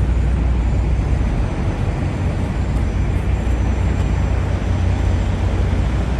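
Steady low rumble of idling trucks, running without change.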